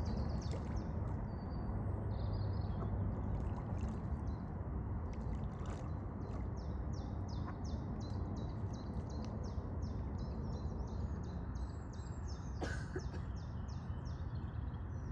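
Steady low rushing of flowing water. A songbird repeats a long run of short high notes, about three a second, from about six seconds in until near the end.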